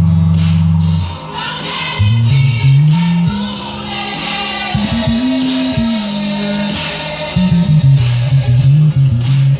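Gospel music: an electric bass line, loud and prominent, moving between held and quicker notes over drums, with voices singing.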